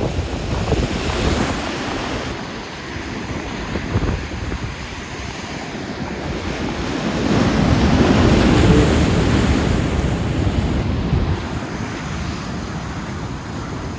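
Heavy surf crashing against the cliffs and seawall, one wave swelling to a loud peak around the middle, with wind buffeting the microphone.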